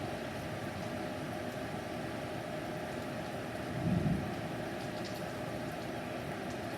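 Steady rain during a thunderstorm, with a brief low rumble of thunder about four seconds in.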